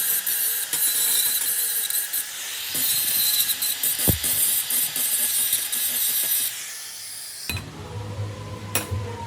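A power tool working metal: a harsh, high hiss with a faint steady whine, cutting off about seven seconds in. After that, a quieter low hum.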